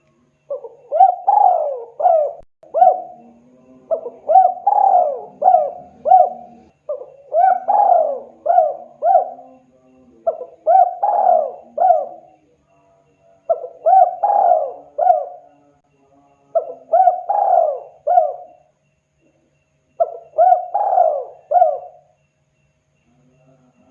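Spotted dove (tekukur) cooing in repeated phrases of a few coos each, about two seconds long with short pauses between, seven phrases in all.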